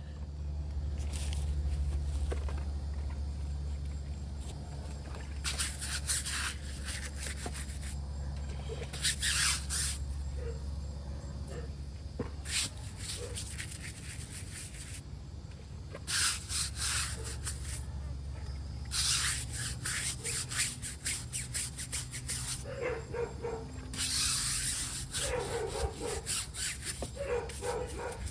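A car being washed: repeated bursts of hiss, each one to four seconds long, over a steady low hum.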